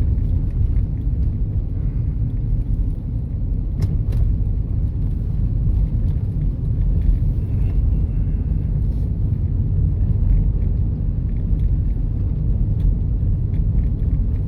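Steady low rumble of a car driving, heard from inside the cabin: tyre and engine noise on the road, with a couple of faint clicks about four seconds in.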